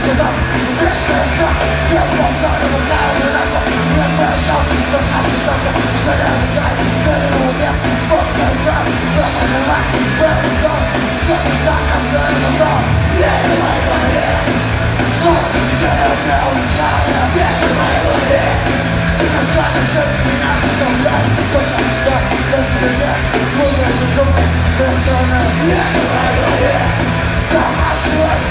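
A rock band playing live at full volume, with yelled singing over the music.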